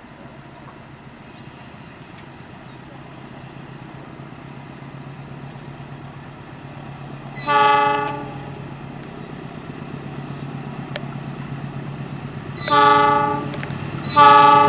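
Diesel locomotive approaching at the head of a passenger train, its engine drone growing steadily louder, sounding its horn three times: one blast of about a second halfway through, then two more near the end.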